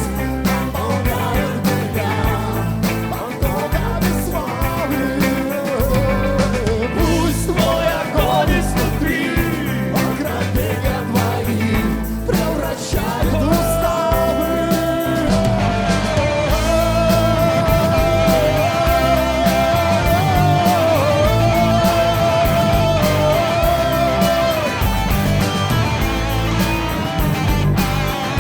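Rock band playing an instrumental passage of a worship song: drums, bass and guitars, with a lead melody holding long notes through the second half.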